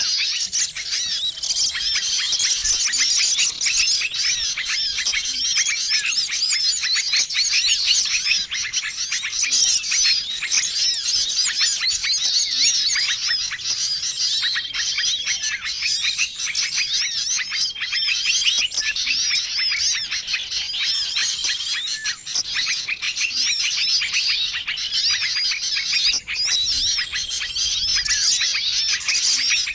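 Small-bird lure call mix: a dense, unbroken chorus of many small birds chirping and twittering over one another. A short level whistled note recurs every few seconds above the chatter.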